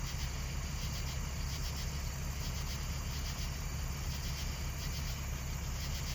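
Insects chirping in a fast, pulsing chorus over a steady low rumble.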